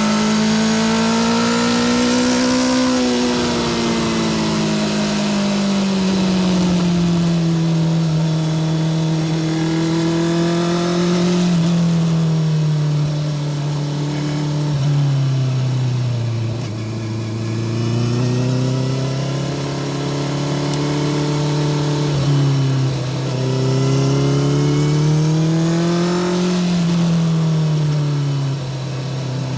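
Honda CBR650R inline-four running through a Spark full titanium short exhaust, the engine note climbing and falling several times with the throttle while riding, loud and continuous.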